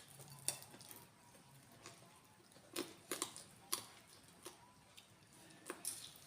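Eating sounds: scattered wet clicks and mouth smacks of someone chewing fish head, several coming close together around the middle and a couple more near the end.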